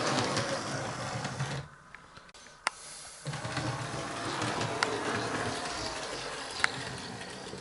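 Small electric motor of a 00 gauge model locomotive, a converted Hornby 0-4-0 shunter, running along the track with a steady whirr and scattered sharp clicks. The whirr drops away for about a second and a half, about two seconds in, then runs on.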